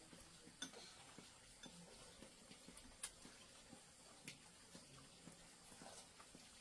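Near silence with scattered faint clicks of spoons or chopsticks against bowls during a meal, the loudest about three seconds in.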